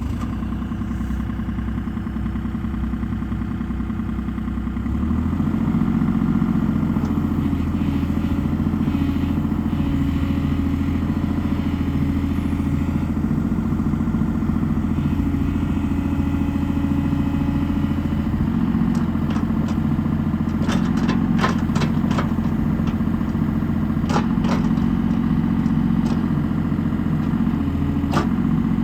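Kubota KX033-4 mini excavator's three-cylinder diesel engine running steadily, stepping up to a higher, louder speed about five seconds in. From about twenty seconds in, a series of sharp knocks and clanks sound over the engine.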